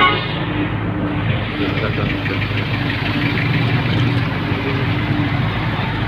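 A vehicle's engine running steadily under an even rush of road noise, with no change in speed.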